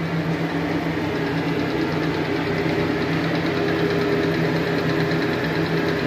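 Lathe running steadily under power, a constant hum from its motor and gearing.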